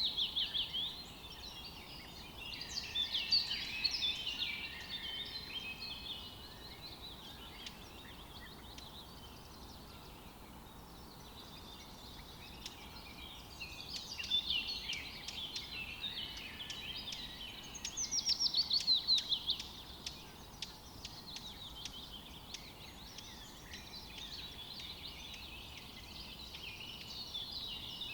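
Songbirds singing and chirping, with bouts of quick repeated notes that fall in pitch, loudest just at the start and again about two-thirds of the way through, over a faint steady outdoor hiss.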